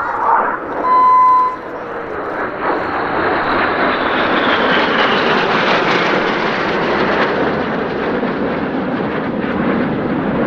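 BAE Hawk jets flying past in formation: engine noise builds from about two seconds in, with a whine that falls in pitch as they pass, and holds on to the end. A short steady beep sounds about a second in.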